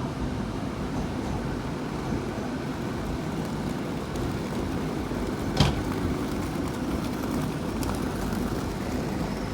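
Hitachi IET bi-mode train moving along the platform on its underfloor diesel engines: a steady rumble, with one sharp clank about five and a half seconds in.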